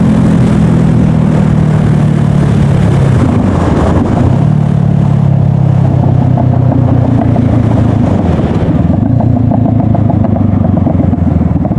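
Honda CBR500R's parallel-twin engine running under way. Its pitch dips briefly about four seconds in, climbs steadily again, then eases off about nine seconds in.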